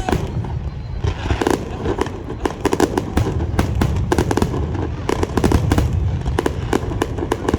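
Fireworks display: many sharp bangs and crackling pops in quick succession, coming in clusters, over a continuous low rumble of distant bursts.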